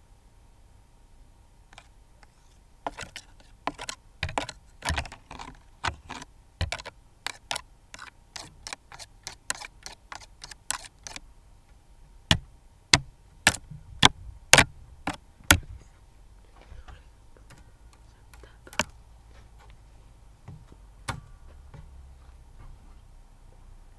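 A run of sharp clicks or taps, several a second and irregular, growing louder near the middle, followed by two single clicks. A faint steady hum sits underneath.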